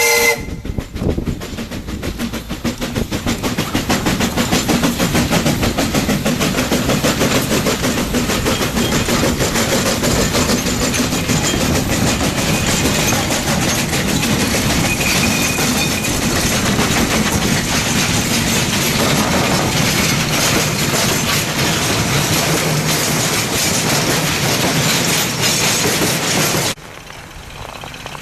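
Narrow-gauge C2 steam locomotive and its train of coal wagons running past, with fast steady exhaust beats and the clatter of wheels on rail joints. The whistle ends just at the start, and the sound cuts off abruptly about a second and a half before the end.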